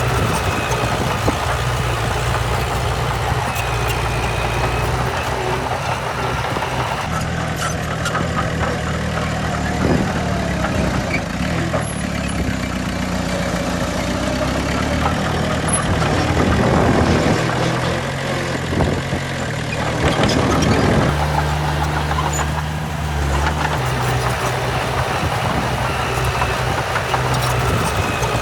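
Heavy diesel earthmoving machinery running steadily. Its engine note changes for a stretch in the middle, with a few rises in pitch as the engine revs, then settles back to a steady run.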